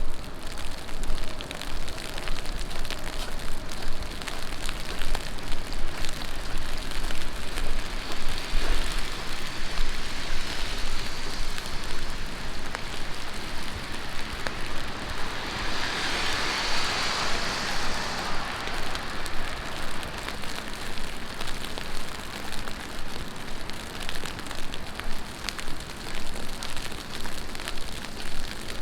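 Heavy rain falling on the street, a steady hiss. About halfway through, a louder, brighter hiss swells for about three seconds and fades.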